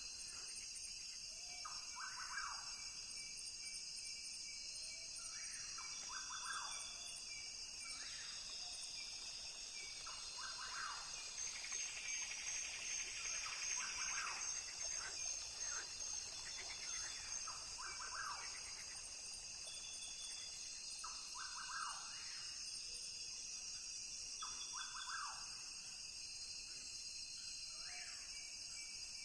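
Rainforest ambience: a steady high-pitched insect drone with short animal calls repeating every two to three seconds, and a louder swell of buzzing in the middle.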